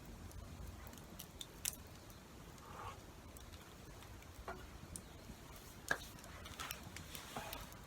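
Wood campfire crackling, with scattered sharp pops and clicks, the loudest about two seconds in and about six seconds in.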